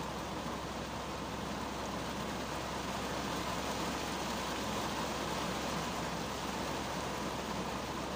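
Heavy rain falling on the windshield and roof of a 2010 Kia Cerato, heard from inside the cabin as a steady hiss that swells slightly in the middle.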